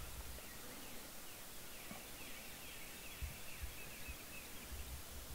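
Faint outdoor ambience: songbirds chirping in quick runs of short down-slurred notes over a steady hiss, with scattered low rumbles.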